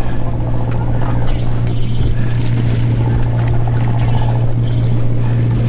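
A fishing boat's engine running with a steady low hum that holds an even pitch and level throughout.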